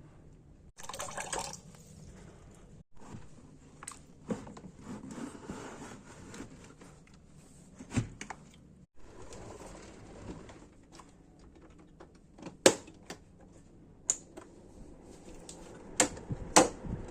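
Irregular sharp clicks and knocks with some rustling, from handling the plastic parts of an electric fan while it is taken apart and cleaned; the loudest clicks come near the middle and twice near the end.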